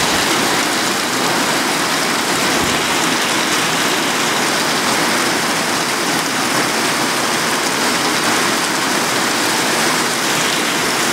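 Heavy rain pouring down on a yard, a loud, steady hiss.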